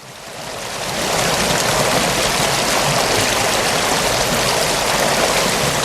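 Steady rush of flowing river water, fading in over about the first second.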